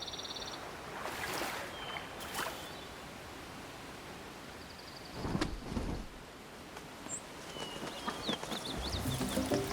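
Outdoor wetland ambience: a steady background hiss with a short high insect-like buzz and a dull thump about halfway through, then scattered short bird chirps. Music comes in with low sustained notes near the end.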